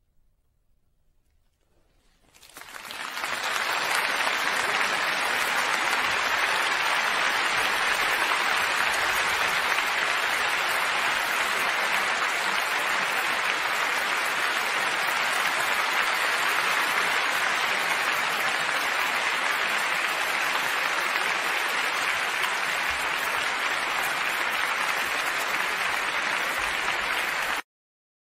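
Concert audience applause: after about two seconds of near silence it breaks out and swells quickly into steady, dense clapping, then cuts off abruptly near the end.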